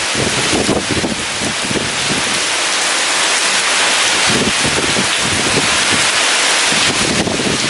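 Heavy rain falling in a steady, dense hiss, with strong wind gusting in short low rumbles that ease off in the middle and pick up again near the end.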